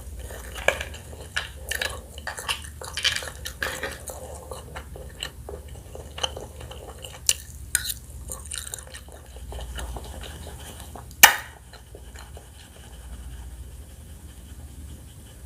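Close-miked eating of pickled crab: wet chewing, smacking and crackly clicks of shell and utensils, with one loud sharp click about eleven seconds in, after which the sounds thin out.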